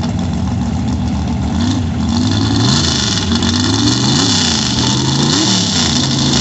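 Sand drag race vehicle's engine being revved at the line: a steady low drone with about four quick throttle blips, each rising and falling in pitch, over a hiss that grows about two and a half seconds in.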